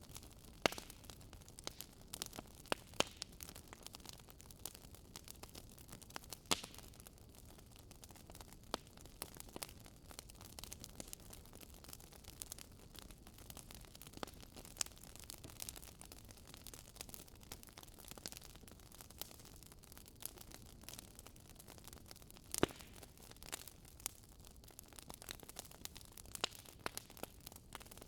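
Wood fire burning in a fireplace: low steady hiss with irregular sharp crackles and pops, a few louder snaps standing out.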